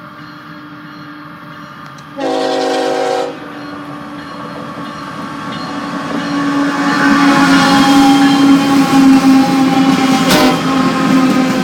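Canadian Pacific double-stack container train's diesel locomotive approaching: one horn blast of about a second early on, then the engine and train noise growing steadily louder as it comes past, with a sharp knock near the end.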